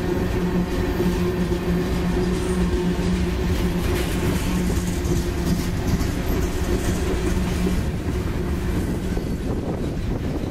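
Freight train of tank cars and gondolas rolling past close by: steady rumble of wheels on the rails, with a low steady hum that fades out about three-quarters of the way through.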